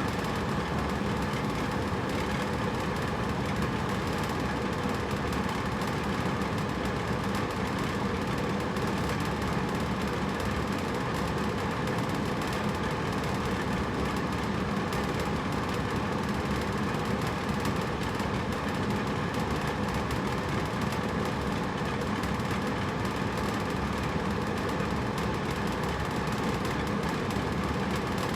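Hotel room air conditioner running steadily: an even rush of air with a low hum.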